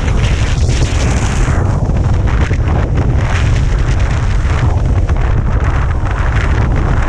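Strong wind buffeting the action camera's microphone: a loud, steady, low rumbling roar with no letup.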